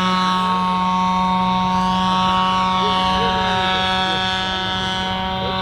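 Large radio-controlled model airplane engine running steadily at high revs, a loud buzz that holds one pitch throughout.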